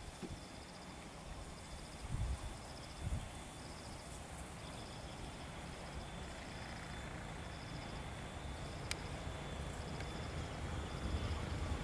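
Quiet rural ambience with an insect chirping in a steady repeating pulse, and two low thumps about two and three seconds in. A low train rumble builds toward the end as a train approaches.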